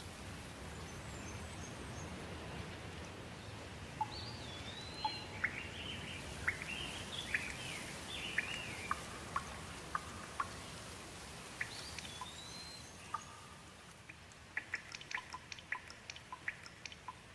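Steady rain falling, with songbirds chirping and whistling in short gliding phrases through the middle. Near the end the rain eases and a quick run of sharp drips takes over.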